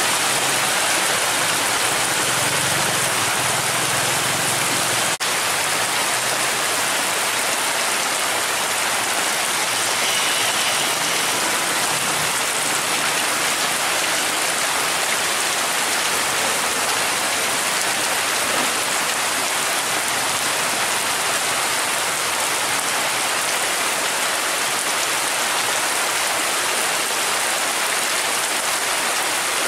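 Heavy tropical downpour: a dense, steady hiss of rain on the road and puddles. A passing vehicle adds a low rumble in the first few seconds.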